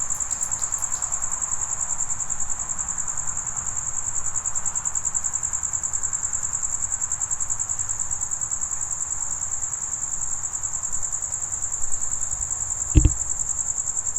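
Crickets chirping in a steady, high-pitched trill. One brief low thump comes near the end.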